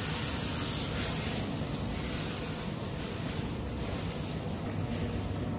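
Steady, even sizzling hiss of a paratha frying on a hot tawa.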